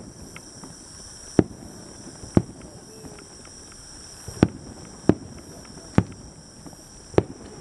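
Aerial firework shells bursting overhead: about seven sharp bangs at uneven intervals, roughly a second apart.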